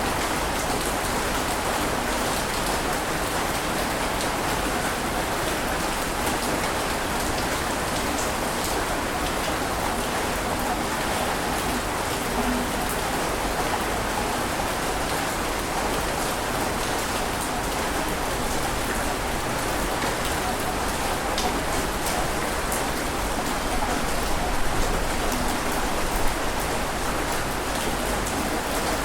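Steady rushing water noise with a fine crackle of drops or spray, keeping an even level without the rise and fall of separate waves.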